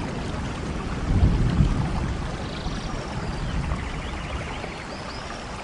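Steady rain with a low rumble of thunder that swells about a second in and slowly eases away.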